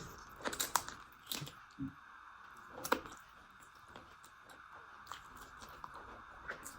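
Close-up chewing and wet mouth sounds of someone eating rice and chicken curry: a cluster of sharp smacking clicks in the first three seconds, then only a few faint ticks.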